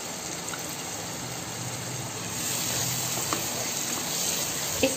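Masala gravy of oil and water sizzling and bubbling steadily in a pan, growing a little louder and hissier about halfway through as a spatula stirs it.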